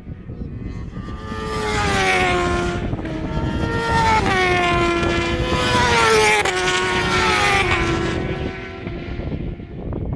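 Superbike motorcycle engine running at high revs, its pitch sliding and stepping up and down several times. It grows loudest about six seconds in and fades near the end.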